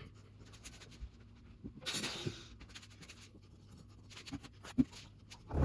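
Intermittent scraping with scattered light clicks and knocks during masonry work: a short scrape about two seconds in, and a sharp knock near the end.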